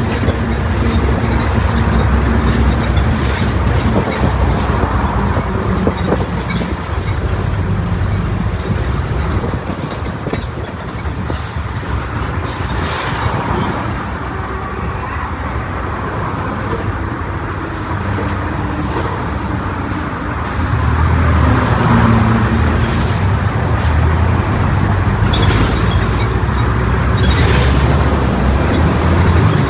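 Mercedes-Benz OF1722M bus running on the road: a steady low engine and drivetrain drone with occasional knocks and rattles. It eases off for a stretch near the middle, then grows louder again about two-thirds of the way through.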